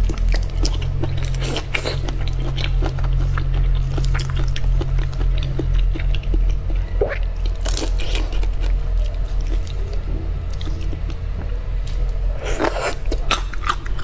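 Close-miked biting and chewing of prawns, with many sharp crunches, over background music.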